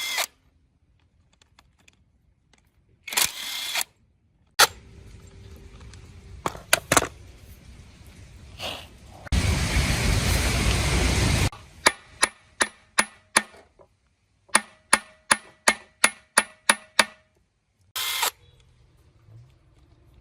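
Metalworking on engine parts: scattered sharp metallic knocks, a noisy burst from a power tool lasting about two seconds near the middle, then two quick runs of sharp ringing metal taps, about four to six a second.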